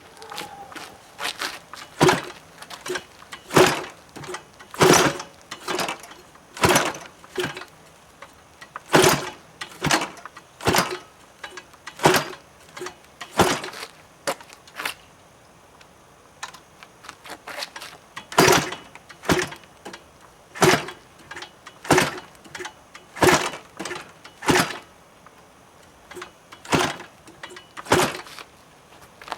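Footsteps of someone walking: a sharp step about every second and a half, with fainter ones in between.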